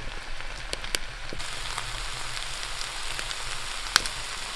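Potatoes, moose meat and vegetables sizzling in moose tallow in a cast iron skillet: a steady hiss with scattered pops, one sharper pop about four seconds in.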